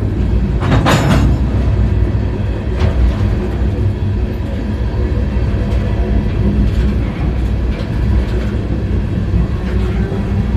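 Freight train rolling, heard from on board an open car: a steady low rumble with occasional knocks and rattles, and a louder burst of metallic rattling noise about a second in.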